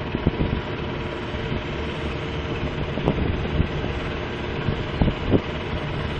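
Heavy engine running steadily, with a few sharp knocks scattered through.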